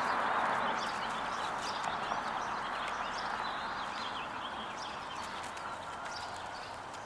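Small birds chirping in many short, high calls over a steady background hiss that slowly fades.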